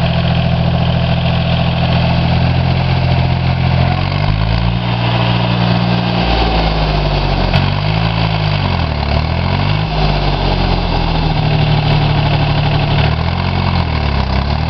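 Orchard tractor engine running, steady at first, then its pitch drops and swings down and back up several times as the revs or load change.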